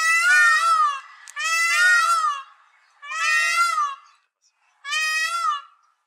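A bird giving four long calls, each about a second long with a wavering pitch, about one every second and a half.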